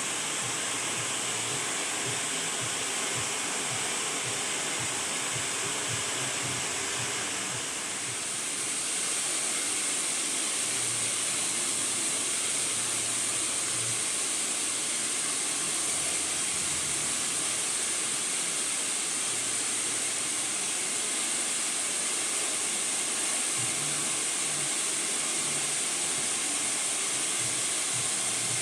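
Hair dryer blowing steadily on someone's hair, a continuous hiss. About eight seconds in it grows slightly louder and brighter.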